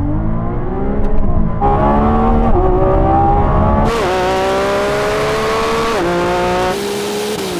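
Supercar engine at full-throttle acceleration, its pitch climbing steadily and dropping sharply at each upshift, about four times.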